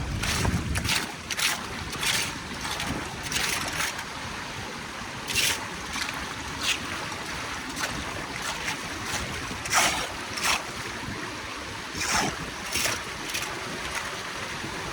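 Water running steadily, with irregular short splashes every second or so.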